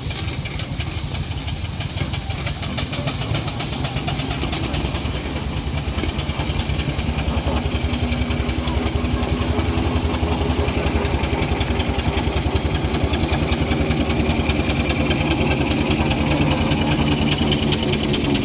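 An engine running steadily with a fast, even beat, growing louder over the first half and then holding.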